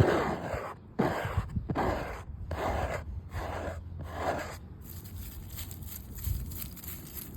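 Close-up scratching on a hard surface: five slow rasping strokes, about one a second, that stop a little over halfway through, leaving faint outdoor background.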